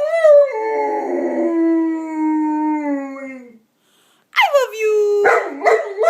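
Bernese Mountain Dog howling in drawn-out, voice-like 'talking' calls. One long howl slowly falls in pitch and fades out about three and a half seconds in; after a short pause, a second howl rises sharply and wavers up and down.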